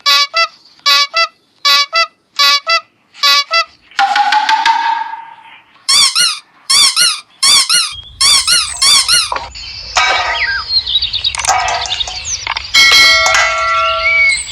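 A string of cartoon sound effects: short warbling electronic blips in pairs, a wobbling tone about four seconds in, then fast trilling chirp-like tones, and a busier run of electronic tones with some held notes near the end.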